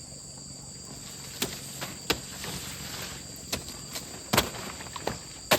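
Five or so irregular sharp chops from a blade cutting leaves off a banana pup, the last two the loudest, over a steady high drone of insects.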